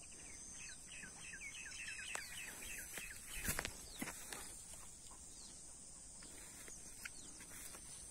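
Faint outdoor ambience of a bird calling in a quick run of short falling chirps for the first two seconds or so, over a steady high hiss. A few sharp clicks come around the middle.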